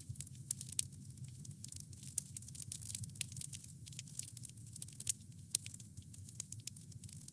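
Wood fire crackling: a dense, irregular run of small snaps and pops over a low steady rumble, with a few sharper pops scattered through.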